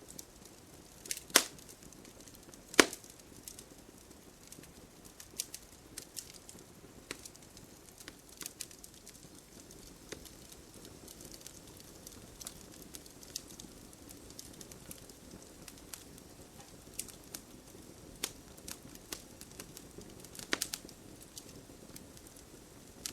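Wood campfire burning, crackling with irregular snaps over a soft steady rush of flame. Two sharp, loud pops come in the first three seconds, and a cluster of pops comes near the end.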